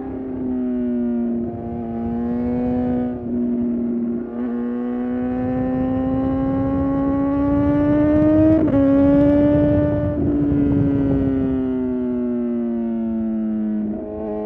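Suzuki GSX-R750 inline-four engine under way. The engine note dips briefly a few times, then rises steadily as the bike accelerates. There is a sharp break in the note about two-thirds through, then the revs fall away gradually as the rider eases off near the end.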